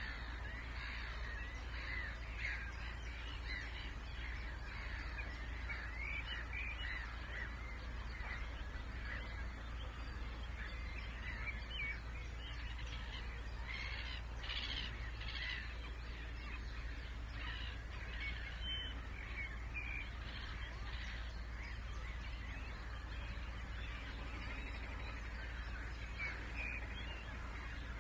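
Marsh bird chorus in spring: many birds calling and singing at once in dense, overlapping short phrases, over a steady low hum.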